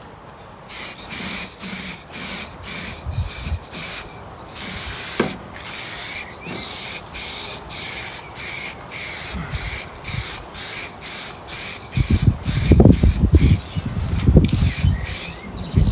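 Spray can hissing out a protective coat onto a birdhouse in many short bursts, about two a second. Some low rumbling handling noise joins in near the end.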